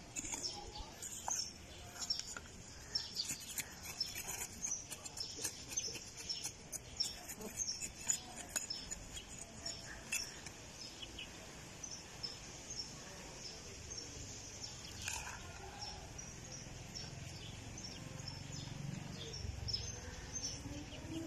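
Small birds chirping over and over in short, high notes, over the crackly scraping of dry soil being dug and scooped with a garden trowel and gloved hands during the first half. A low rumble comes in near the end.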